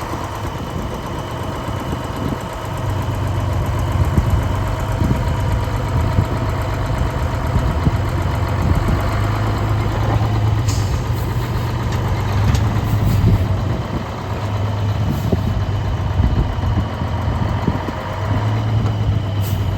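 1983 GMC Brigadier heavy truck engine running steadily with a low hum, which grows a little louder about three seconds in. A few faint clicks sound over it.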